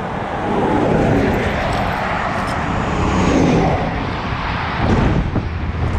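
Road traffic going past close by: a steady rush of tyre and engine noise that swells as vehicles pass, about a second in, a little after three seconds and again near the end.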